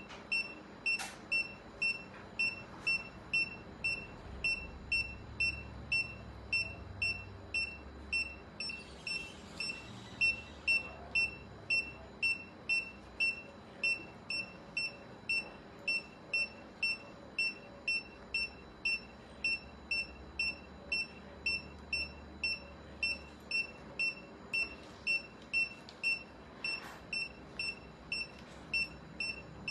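Surgical patient monitor beeping: a short high beep about one and a half times a second, the regular pulse tone that tracks the anaesthetised cat's heartbeat.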